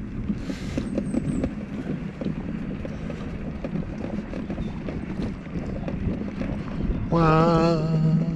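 Wind buffeting the microphone over a low rumble with scattered small knocks. Near the end a man's voice holds one drawn-out, wavering note.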